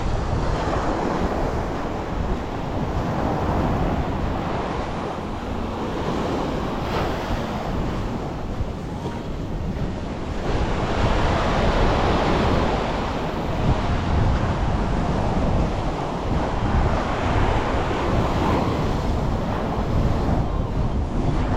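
Surf washing onto a beach, with wind buffeting the microphone in a steady low rumble. The wash of the waves swells louder about halfway through and again near the end.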